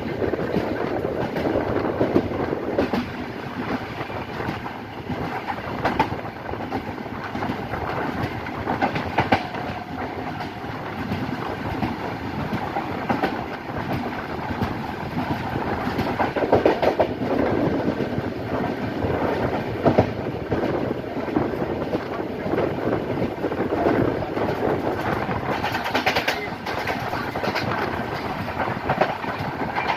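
Passenger express train running, its wheels clattering steadily over the rail joints with a constant rumble.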